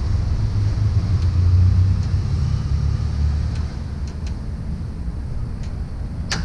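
Steady low rumble of riding a motorized bicycle, with wind buffeting the microphone, swelling over the first few seconds and then easing off. A sharp click near the end.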